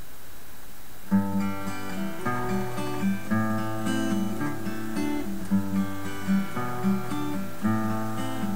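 Collings OM1C steel-string acoustic guitar playing a solo intro, starting about a second in: separately plucked melody notes over a moving bass line.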